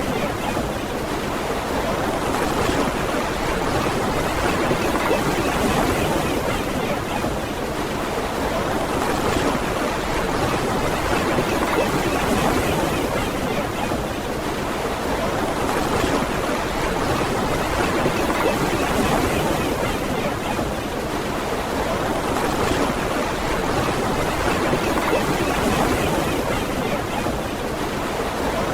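Ocean surf washing on a beach: a steady rush of waves that swells and eases gently every several seconds.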